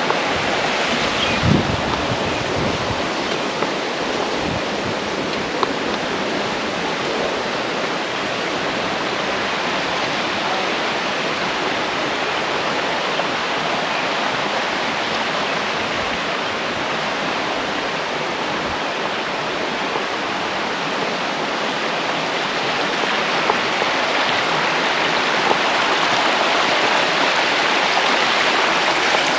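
Steady rushing of flowing river water, an even hiss-like wash with no breaks.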